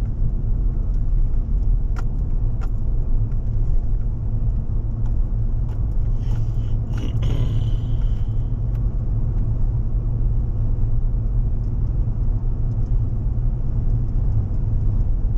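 A car driving: steady low engine and road rumble, with a couple of sharp clicks or rattles about two seconds in and a brief faint higher squeal around the middle.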